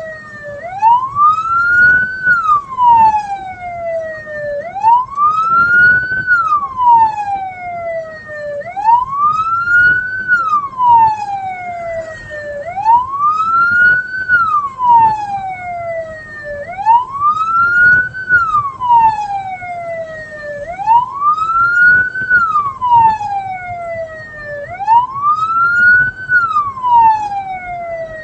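A vehicle's electronic siren on a wail setting, repeatedly rising quickly and then sliding slowly back down in pitch, about one cycle every four seconds, over low road and engine rumble.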